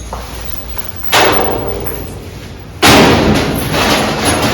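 Two loud bangs of sheet-metal ductwork being knocked or set down, about a second and a half apart, each fading away slowly.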